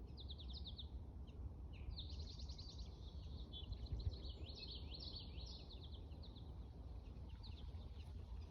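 Small songbirds chirping and singing in quick runs of high notes, busiest in the middle and fading out near the end, over a faint low steady rumble.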